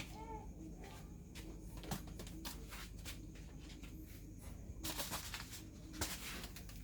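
A kitten gives a short meow right at the start. Scattered soft clicks and rustles follow, with a brief louder rustle about five seconds in and another about six seconds in.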